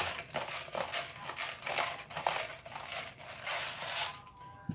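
Irregular crinkling and rustling handling noise that dies away about four seconds in.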